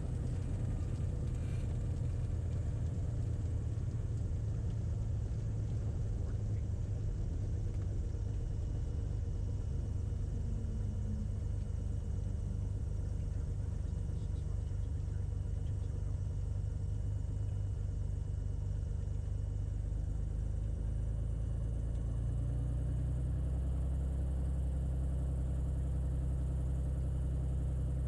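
Light airplane's piston engine and propeller running steadily, heard from inside the cockpit as a low rumble with a faint steady whine above it. The low drone grows a little fuller near the end.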